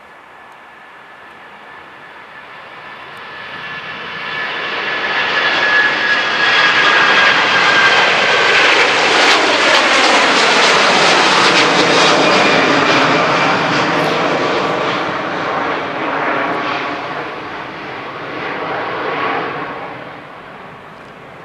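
Airbus A330-300 airliner's twin Rolls-Royce Trent 700 turbofans at takeoff power as the jet passes by. A loud roar builds over several seconds, peaks, then fades away. A high whine falls slightly in pitch as it goes past.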